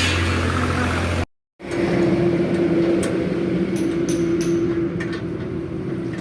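Tractor diesel engine running at a steady idle. About a second in the sound cuts out briefly, then a steady engine hum resumes at a different pitch, with a few light metallic clicks.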